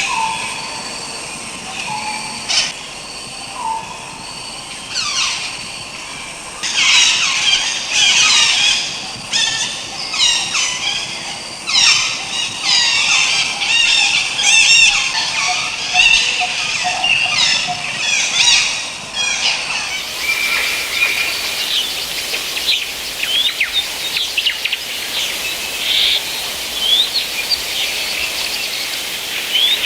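Birds calling: many rapid high chirps, trills and warbling calls overlapping. About two-thirds of the way through it switches abruptly to a steady hiss of natural ambience with only occasional chirps.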